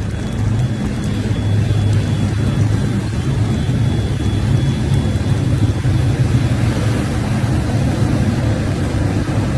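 A steady, low vehicle-engine rumble under a constant wash of noise.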